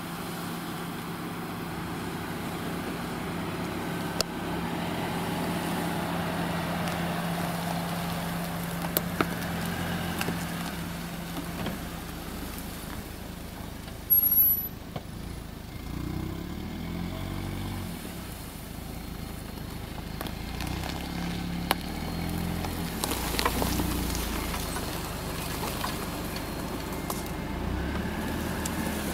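Car engine running as the car drives slowly through tall grass: a steady hum for the first twelve seconds or so, then the engine note rises and falls. Scattered clicks, with one loud sharp knock about fourteen seconds in.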